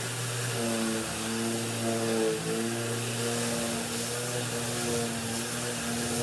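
Electric sander and vacuum cleaner running together on a wooden table top: a steady motor hum with a hiss of air, its pitch wavering slightly.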